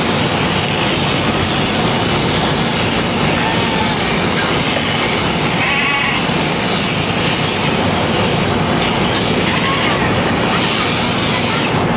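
Sheep-shearing clippers running steadily through the fleece, with a sheep bleating briefly about midway.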